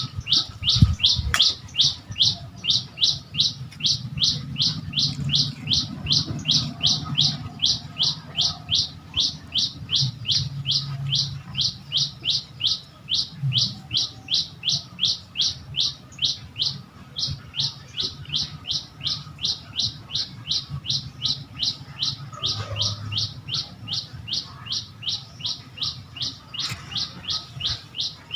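A single bird repeating the same short, high chirp over and over at a steady pace of about three calls a second, over a faint low background rumble.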